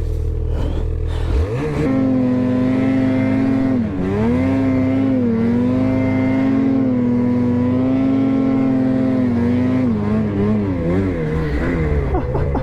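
Ski-Doo 850 two-stroke snowmobile engine revving up about a second and a half in and held at high revs, with a brief dip around four seconds. Near the end the throttle goes up and down.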